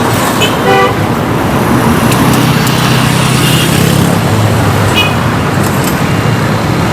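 Road traffic running steadily, with a short car-horn toot a little under a second in and another brief high toot around five seconds in.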